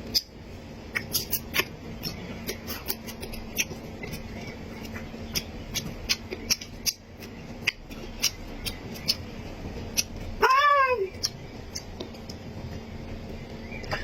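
Close-miked eating sounds: chewing, lip smacking and short sharp clicks and crunches of food. About ten seconds in comes a brief hummed "mm" that rises and falls.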